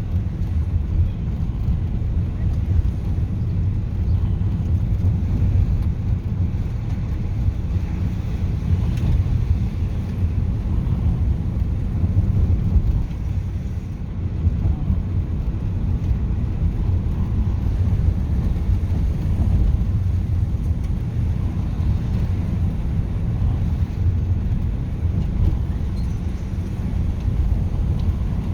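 Steady low rumble of a moving car, road and engine noise with no change in pace.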